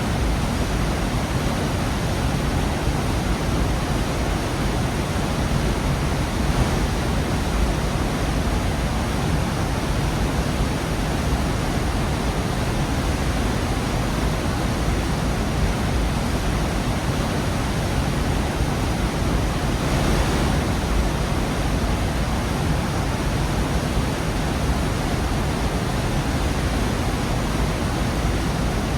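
Waterfall in a rocky gorge: a steady, full rush of falling water, deep and even throughout.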